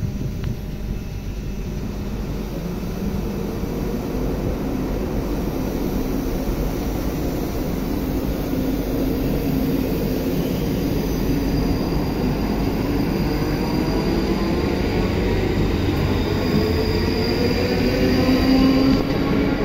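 ScotRail electric multiple-unit passenger train running past the platform: a steady rumble of wheels on rails. A whine rises in pitch over the last several seconds.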